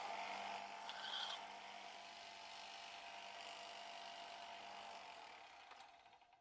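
Electric sander starting up and running steadily as the chipped edge of a nakiri knife is ground down on it, briefly louder and brighter about a second in; it winds down and stops near the end.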